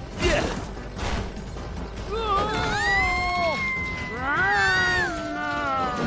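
Cartoon soundtrack: a sharp crash-like hit just after the start and a lighter one about a second in, then music with several gliding, swooping tones over the rest.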